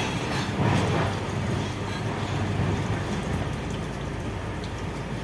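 Steady low mechanical rumble of a running engine, a little louder in the first two seconds.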